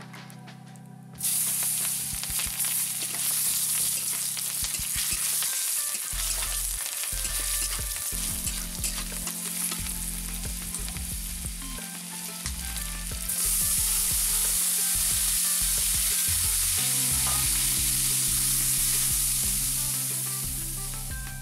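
Food frying in hot oil in a wok, with a metal spatula stirring and scraping. The sizzling starts suddenly about a second in, then gets louder about thirteen seconds in as chopped vegetables go into the pan.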